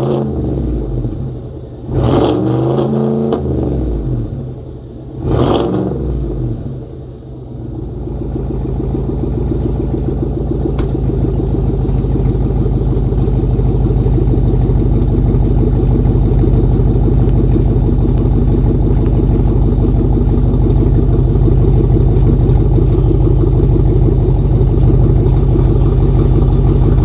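A 2021 Chevrolet Suburban's 6.2 L V8 with the muffler and both resonators removed and the catalytic converters left in, revved three times in the first six seconds, each rev falling away quickly. It then settles into a steady exhaust drone that grows slowly louder.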